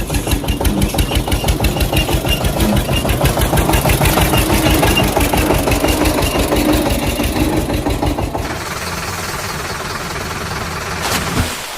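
Engine idling with a rapid, even chug. About eight seconds in it changes to a smoother, steadier run, and it cuts off just before the end.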